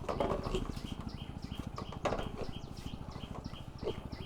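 Small birds chirping: a short high chirp repeats evenly about three times a second, with a few louder, lower calls near the start, about two seconds in, and near the end, over a fast low pulsing.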